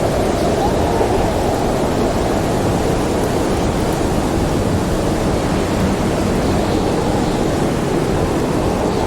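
Howling storm wind: a loud, steady rush, with a faint whistling tone that bends in pitch about a second in.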